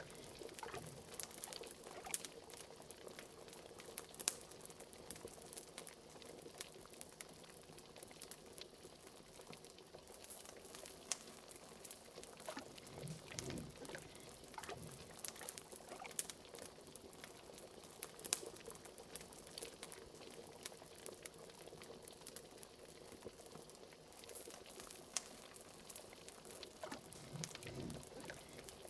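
A pot of liquid bubbling at the boil over a fire, with sharp crackles and pops from the burning wood scattered throughout. Deeper bubbling swells rise about halfway through and again near the end.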